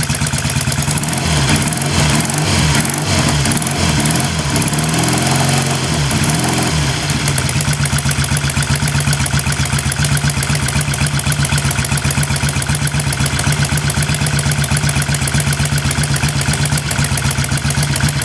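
Triumph T100C's 500cc parallel-twin engine running just after a cold start without choke. Its speed wavers for the first several seconds, then settles into a steady idle.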